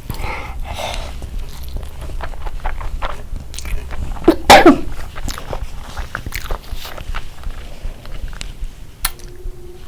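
Close-up eating sounds from someone eating rice and spicy curry: many small chewing clicks and mouth smacks. One loud vocal burst about four and a half seconds in, like a sneeze or cough, is the loudest moment, and a short low hum comes near the end.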